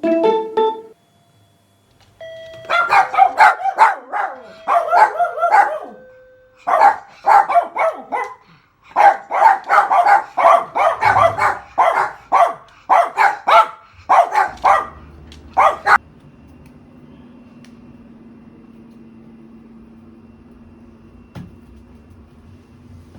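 An electronic doorbell chime dies away, then a papillon barks loudly in rapid volleys for about thirteen seconds, pausing briefly once. The barking stops suddenly, leaving a faint steady hum.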